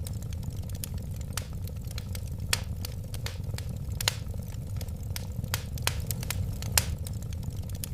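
Wood fire burning: a steady low rush of flames with frequent sharp, irregular crackles and pops.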